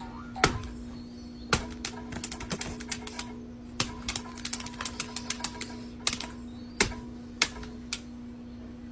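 Rapid, irregular sharp clicks and taps, coming thickest in a quick flurry about halfway through, over a steady low hum.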